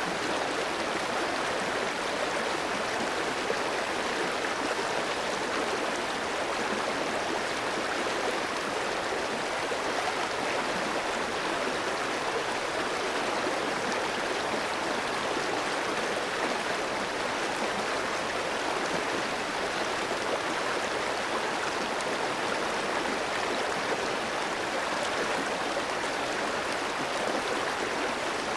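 Clear stream flowing over rocks: a steady, even rush and babble of running water.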